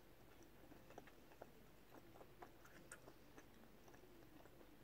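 Faint chewing with the mouth closed: soft, scattered mouth clicks, about one or two a second, over near-silent room tone.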